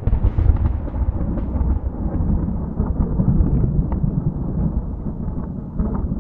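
Thunder rolling: a long, loud, low rumble with crackles in it, sagging slightly near the end before swelling again.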